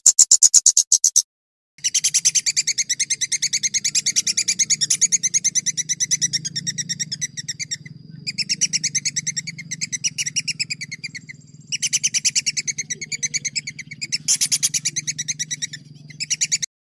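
A songbird singing long runs of rapid, fast-repeated high notes, about ten a second, broken by short pauses, over a faint low hum.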